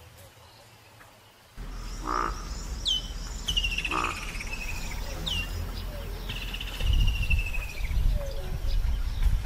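Birds calling: several short whistles that drop in pitch and a longer descending trill. They sit over a steady low rumble that starts about a second and a half in.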